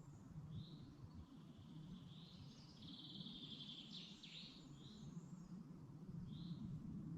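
Songbirds singing faintly in woodland: short high chirps repeated every second or two, with a longer trill about three seconds in that ends in a quick downward sweep. A steady low background rumble runs underneath.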